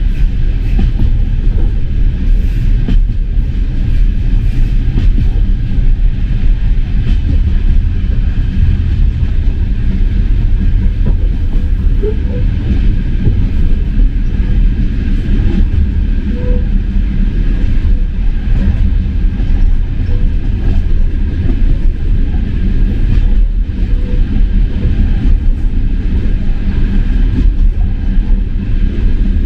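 Passenger train running on the rails: a loud, steady, deep rumble that holds without let-up.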